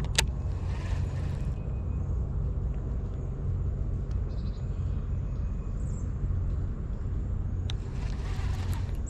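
Steady low rumble, with a single sharp click shortly after the start.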